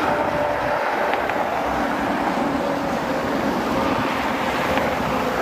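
Airbus A320neo jet airliner's engines on landing, a steady roar with a faint tone slowly falling in pitch, mixed with wind on the microphone.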